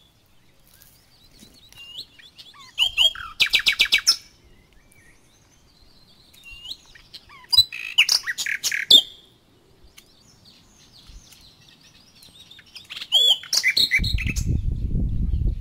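Songbirds singing in three short bursts of rapid, high chirps, with fainter calls between them. Near the end a low rumbling noise sets in and drowns them out.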